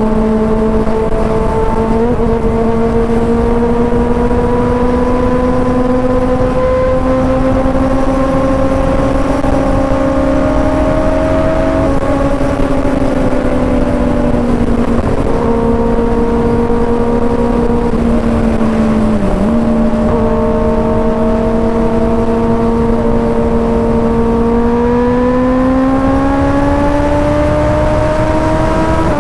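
Kawasaki ZX-6R inline-four with an aftermarket M4 GP19 exhaust, cruising under steady throttle. The engine note holds fairly even with small pitch changes, dips briefly about two-thirds through, then rises as the bike accelerates near the end.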